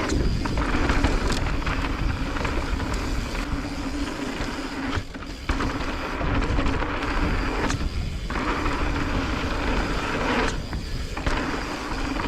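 Mountain bike descending a dirt trail: tyres rumbling and rattling over the ground, with wind on the microphone and a steady hum underneath. The noise drops back briefly a few times.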